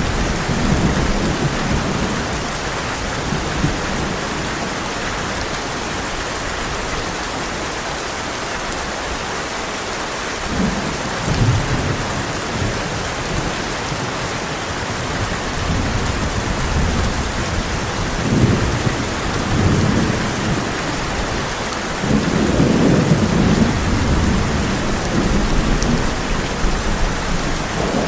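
Heavy rain pouring steadily on a tin roof, with rolling thunder rumbling low several times, swelling about halfway through and again near the end.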